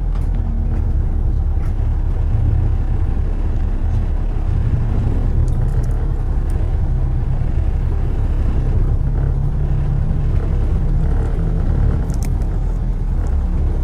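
Steady low rumble of a car driving through city traffic, road and engine noise, with a few faint ticks.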